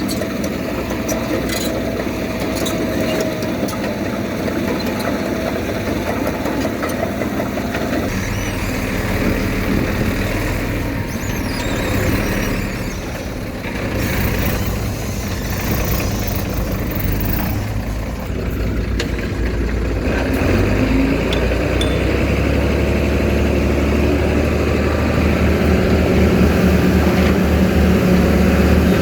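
Diesel engine of heavy earthmoving machinery running under changing load; the low rumble grows heavier about eight seconds in and again around twenty seconds in.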